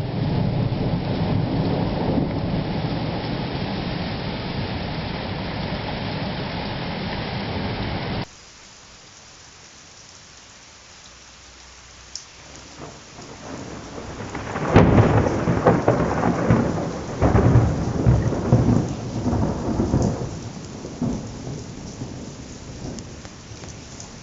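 Thunderstorm: heavy rain with a low thunder rumble, then an abrupt cut to steady rain. About fifteen seconds in, a close lightning strike gives a sharp crack, followed by loud rolling claps of thunder for several seconds that die away under the rain.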